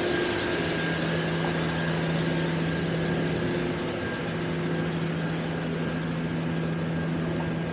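Steady mechanical hum from nearby machinery: a constant low drone with one overtone above a broad, even rush of city noise.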